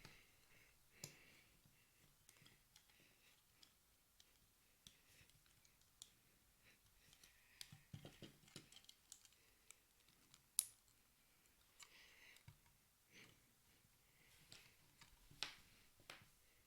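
Faint, irregular clicks of plastic LEGO bricks being handled and pressed together, with a few soft rustles of pieces; one sharper click stands out about ten and a half seconds in.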